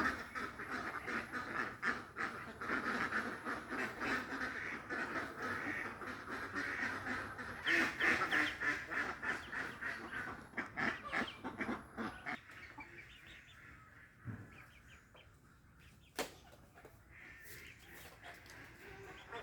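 A flock of ducks quacking, many calls overlapping, thinning out and growing quieter about twelve seconds in, with a sharp click near the end.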